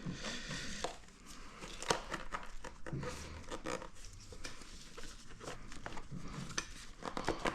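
Plastic airbox parts being handled and worked loose: scattered light clicks, knocks and rustling.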